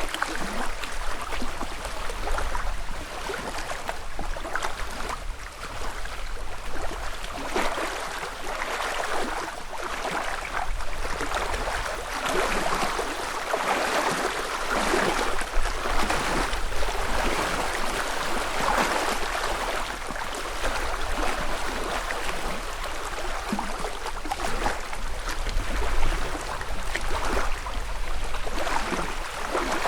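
Small lake ripples lapping and splashing against the shore in an irregular series of soft washes, with a low steady rumble beneath.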